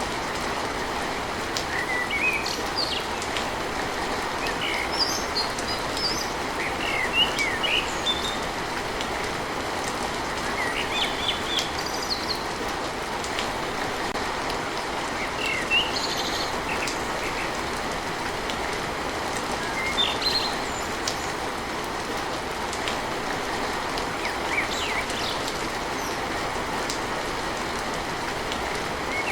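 Steady rain pattering on a tin roof, with sharp drop ticks here and there, and birds chirping in short bursts of calls throughout.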